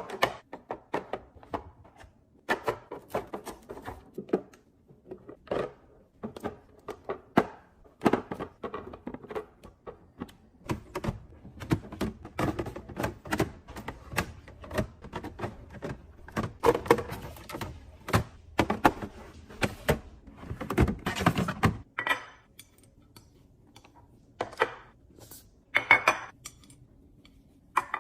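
Containers and bottles being set down and arranged in a refrigerator while it is restocked: a long run of irregular knocks, thunks and clinks, busiest in the middle stretch.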